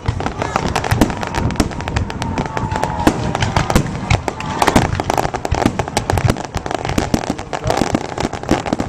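Fireworks going off in a rapid, dense run of bangs and crackling reports, one after another with hardly a gap.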